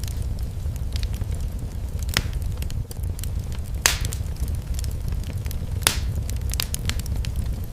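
Wood fire in a fireplace crackling over a steady low rumble, with scattered small clicks and three louder sharp pops about two seconds apart.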